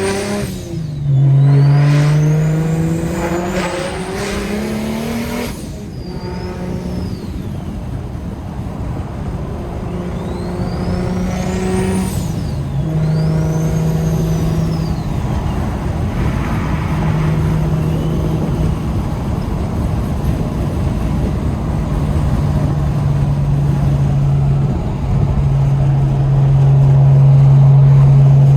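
BMW N54 straight-six with a DocRace single-turbo kit, heard from inside the cabin. It accelerates hard through the gears, with the engine note rising and dropping back at shifts about 1 and 5.5 seconds in and a turbo whistle rising and falling with it. A second spool-up climbs sharply just before 12 seconds, then the car settles into a steady highway drone with road noise.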